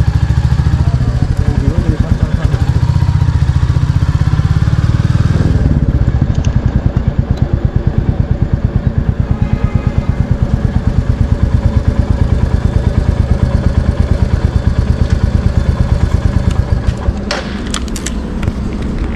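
Royal Enfield Classic 350's single-cylinder engine running with a steady, even exhaust thump, then dropping to a quieter idle near the end.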